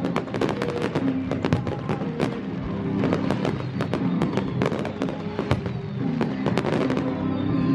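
A fireworks display going off: many sharp bangs and crackles in quick succession, with music playing underneath.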